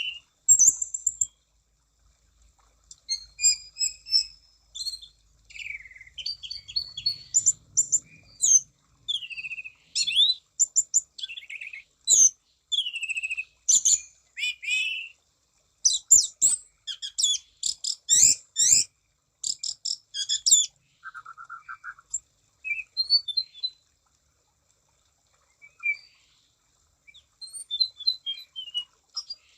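An anis cendana (orange-banded thrush) singing a varied song of whistled and chattering phrases. About halfway through it speeds into a rapid run of repeated notes, then pauses briefly before starting up again near the end.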